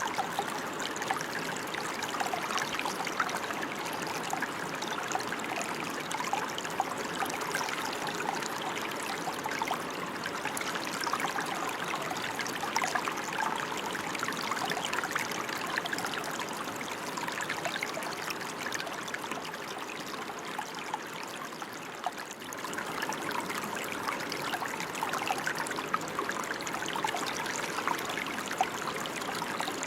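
Steady rain, a dense, even patter of many drops, easing slightly for a moment a little after two-thirds in.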